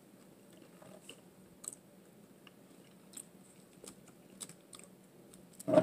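Close-miked eating sounds: quiet chewing of fried catfish with scattered soft mouth clicks, then one short, much louder mouth sound near the end.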